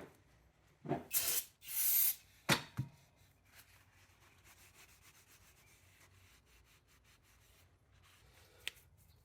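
Gearbox case mating surfaces being cleaned with brake cleaner and a rag: two short rubbing, rushing sounds about one and two seconds in, then a couple of sharp clicks, then only faint room noise with one more small click near the end.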